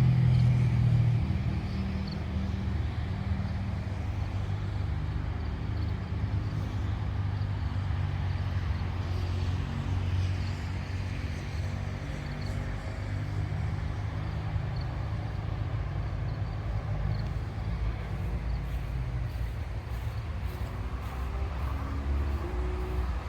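Highway traffic: cars passing with a steady low engine and tyre rumble, loudest about the first second, with an engine rising in pitch near the end.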